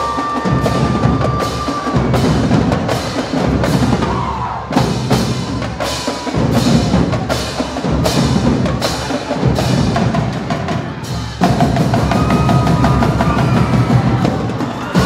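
High school marching band drumline playing a fast, loud, steady drum cadence, with a few held notes from other instruments near the start and again near the end.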